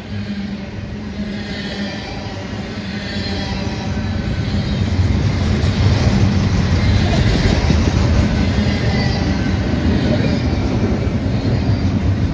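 A train passing close by, a heavy rumble that swells about five seconds in and stays loud, heard over the steady running of a car.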